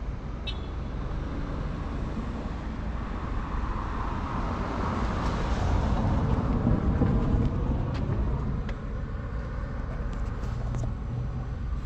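A vehicle engine running steadily, its hum growing louder toward the middle and then easing off, with a few faint clicks.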